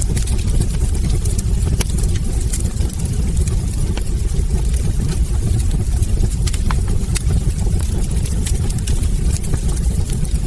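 Log fire in a hearth crackling: irregular sharp pops and snaps, several a second, over a steady low rumble.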